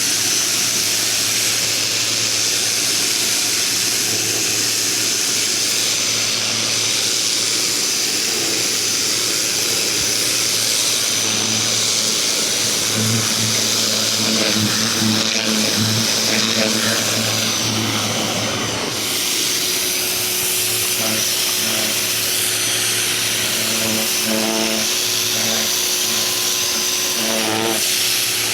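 Ryobi 2000 PSI electric pressure washer running steadily: the motor and pump hum and whine under the hiss of the water jet spraying.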